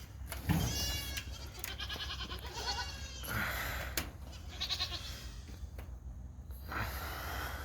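Goats bleating, several wavering high calls in a row.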